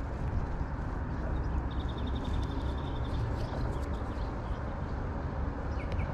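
Steady low outdoor rumble, with a small bird giving a rapid high trill about two seconds in and a few short chirps near the end.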